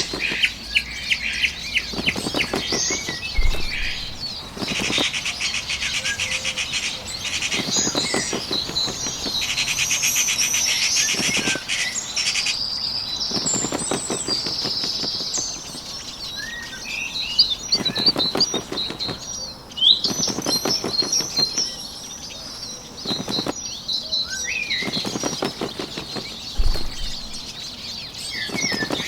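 Bird wings flapping in repeated quick flurries of a second or two, over a steady background of many small birds chirping and twittering.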